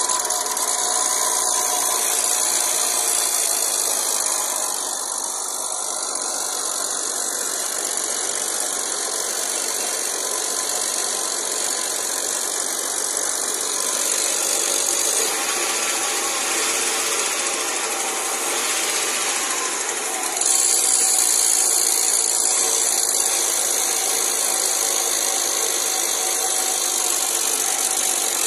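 Ford Aspire's 1.3-litre four-cylinder engine idling steadily, heard from the open engine bay; it gets a little louder about two-thirds of the way through.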